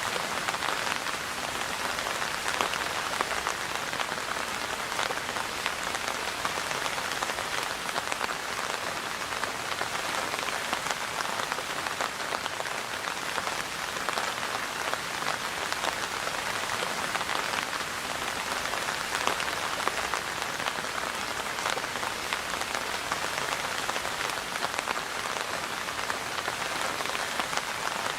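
Steady rain falling and pattering on surfaces, a dense even hiss made up of many small drop ticks.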